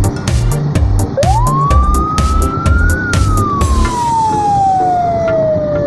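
A siren wails: one quick rise in pitch and then a long slow fall. Under it, music with a heavy thumping beat stops about three and a half seconds in.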